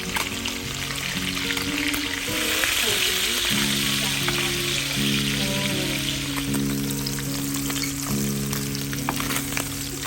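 Seasoned fish frying in hot oil: a steady sizzle with scattered crackles and pops, growing louder about two seconds in and easing back after a few seconds.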